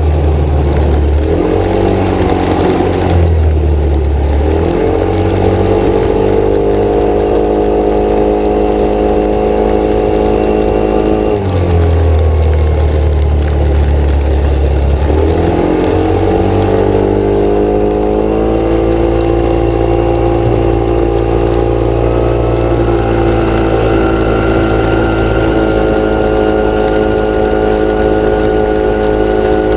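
An engine running without a break, its pitch dropping about eleven seconds in and climbing back a few seconds later, then rising slightly again near the end.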